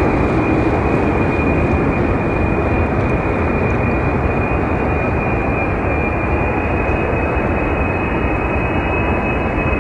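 Jet engines of a three-engined airliner running loud and steady: a broad rush with a high, steady whine on top.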